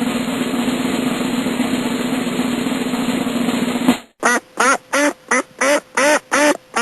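Two comic sound effects: a steady drum roll for about four seconds, then, after a short break, a quick run of about nine short quacks, evenly spaced, each rising and falling in pitch.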